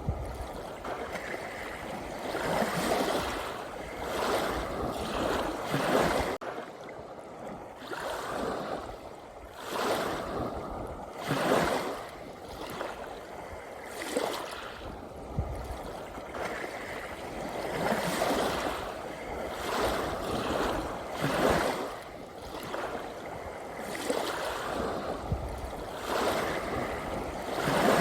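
Sea waves washing and lapping, a surge of water noise every one to three seconds that rises and falls away.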